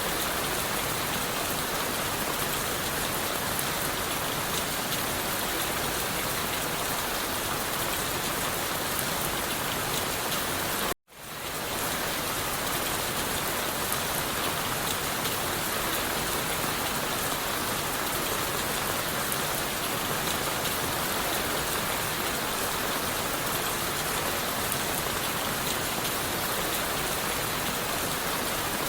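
Steady rain falling and pattering on leaves and wood. About eleven seconds in the sound cuts out completely for an instant and fades back in, an edit or loop splice in the recording.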